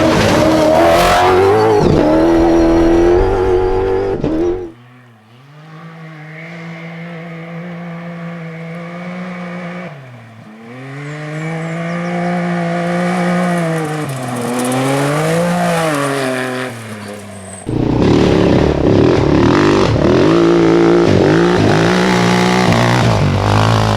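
Off-road rally vehicle engines revving hard through gear changes. It starts loud, drops abruptly about five seconds in to a quieter engine whose pitch rises and falls several times, and turns abruptly loud again near eighteen seconds.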